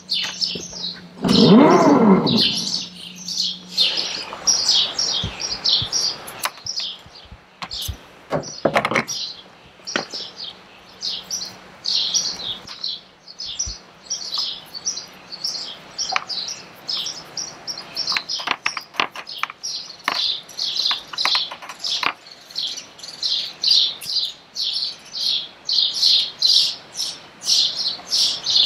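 Small birds chirping rapidly and continuously in high twitters, with a louder, lower squeak of bending pitch about two seconds in. Scattered clicks and light rustles are heard as well.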